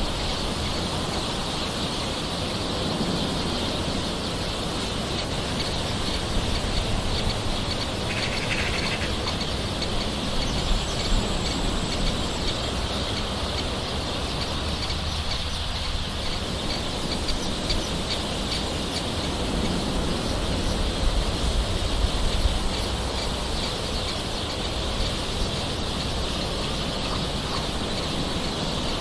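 Steady soft rain, an even hiss, with a few brief bird calls over it.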